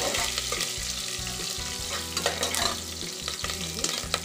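Garlic, curry leaves and green chillies sizzling in hot oil in a pressure cooker, stirred with a metal ladle that clicks and scrapes against the pot now and then.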